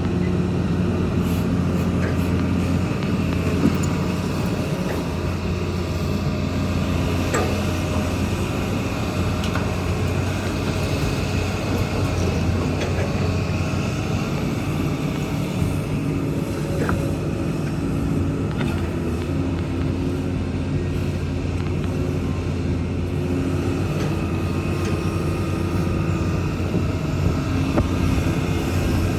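Kobelco excavator's diesel engine running steadily under working load, its pitch shifting slightly as the load changes, with a few short sharp knocks along the way.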